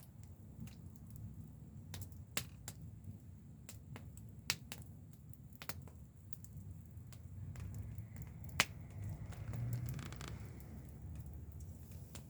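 Wood campfire crackling: scattered sharp pops at irregular intervals over a low, steady rumble, with one louder pop past the middle.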